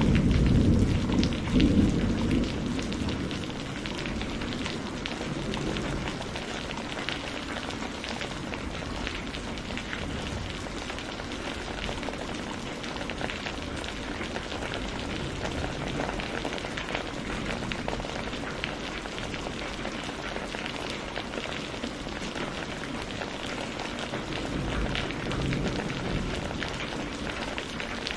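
Steady rain falling with dense patter of drops, as a low thunder rumble dies away over the first few seconds.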